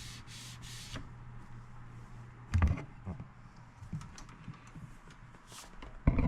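Short rubbing strokes on the stereo's case during the first second, wiping off leftover residue, followed by light handling clicks and two dull knocks, one midway and one near the end.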